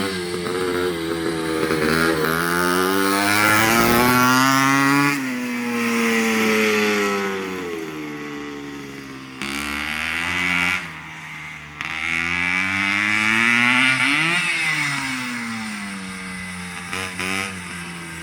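1970 CZ 250 motocross bike's two-stroke single-cylinder engine being ridden and revved, its pitch and loudness climbing to a peak about four seconds in and again near fourteen seconds, then falling away each time.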